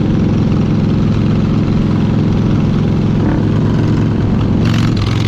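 Motorcycle engine running steadily at an even speed, with a brief rush of noise near the end.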